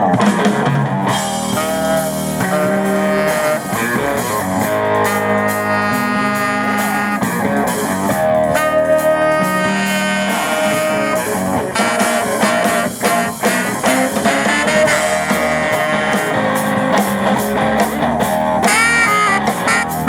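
Live blues-rock band playing: guitar lines over bass and a drum kit. The music comes in suddenly at the very start.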